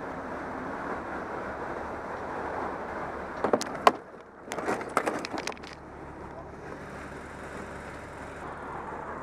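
Motorcycle and traffic noise, a steady rush, broken by a few sharp knocks and clatters about three and a half to five and a half seconds in, the loudest near four seconds.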